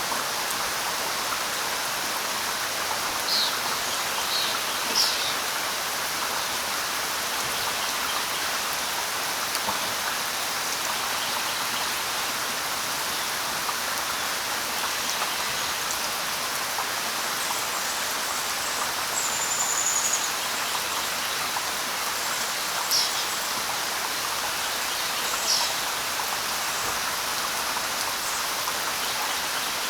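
Steady light rain falling, with a few brief high bird chirps scattered through it, one a short high whistle about two-thirds of the way in.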